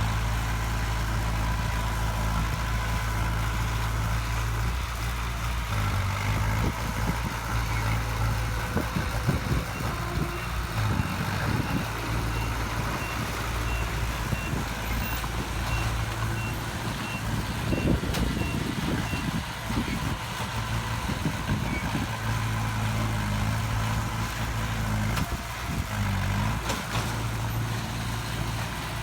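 Heavy diesel construction machinery running steadily, with a truck's reversing alarm beeping at an even pace for about ten seconds in the middle. Rougher rushes of noise build up twice, the louder one a little past the middle.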